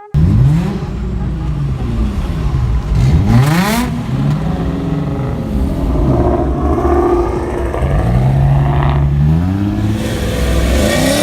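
Car engine revving repeatedly, its pitch climbing and dropping in quick sweeps, then held steady for a moment before climbing again near the end.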